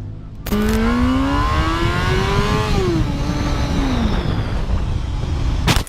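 Motorcycle engine accelerating hard, its pitch climbing for about two seconds, then falling away as the throttle closes, over loud wind and road noise. A sharp bang comes just before the end.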